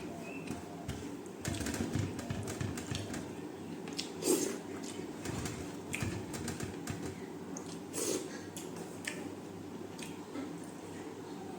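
Close-up eating sounds: chewing and wet mouth clicks and smacks, with a few louder bites or smacks about 4 and 8 seconds in.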